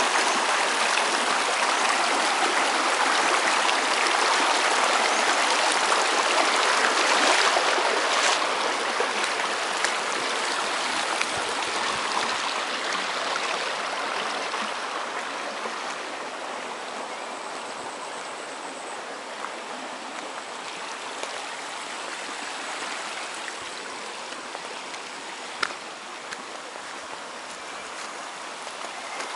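Rushing, splashing water of a waterfall, a steady hiss that is loudest for the first several seconds and then slowly grows quieter, with a few faint clicks.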